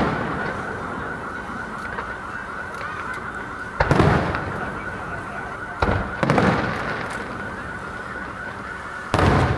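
Aerial fireworks shells bursting: four loud booms, about four, six, six and a half and nine seconds in, each fading away, over a steady high fluttering tone.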